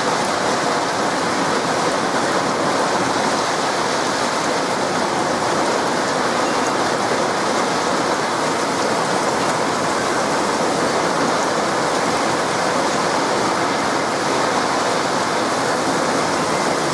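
Heavy rain pouring down in a steady even hiss.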